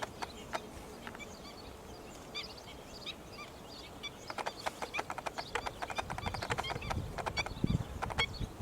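Birds chirping in short, high calls, joined about four seconds in by a dense run of sharp clicks, with a brief low rumble near the end.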